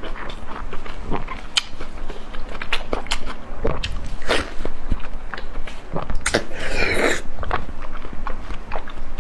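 A person biting and chewing crunchy food: a steady run of sharp crunches and smacks, with a longer, noisier crunch about seven seconds in.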